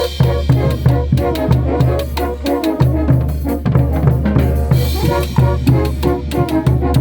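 Brass band music with bass drum and snare keeping a steady, regular beat.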